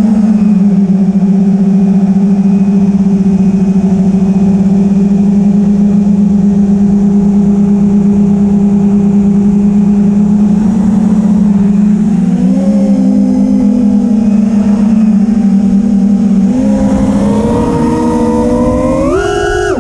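A vehicle's engine running at a steady pitch, then rising in steps from about two-thirds of the way through and climbing sharply near the end, as when accelerating.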